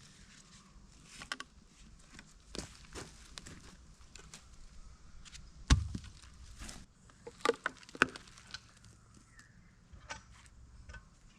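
Footsteps and scattered knocks and clunks, the loudest a single sharp knock about halfway through, followed by a quick run of clunks.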